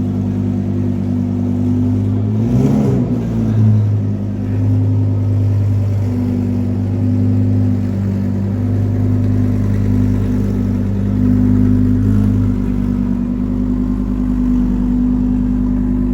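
Car engine idling steadily close by, with a brief rev about two and a half seconds in.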